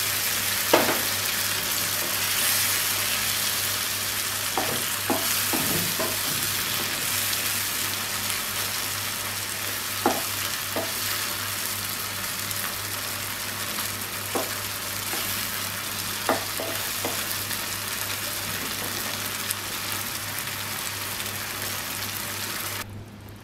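Giant freshwater prawns sizzling as they fry in spiced mustard oil and coconut milk, stirred with a wooden spatula, with a few short clicks over the steady sizzle. The sizzle stops suddenly at the very end.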